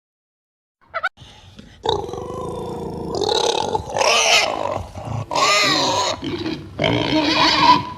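Pigs calling in a string of loud, harsh cries that rise and fall, one after another. The cries start about two seconds in, after a second of silence.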